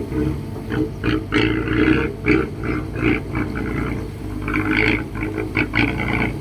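Heavy machinery at work, most likely the Kobelco SK135SR excavator's diesel engine running steadily under load. Irregular higher-pitched bursts of machine noise come over it several times a second, from about a second in to near the end.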